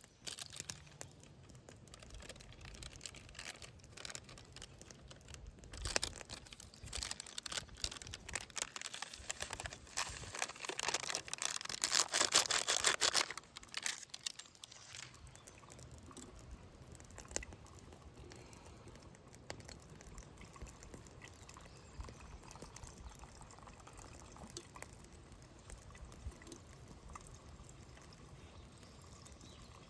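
Liquid being poured for about three seconds near the middle, among faint small handling clicks.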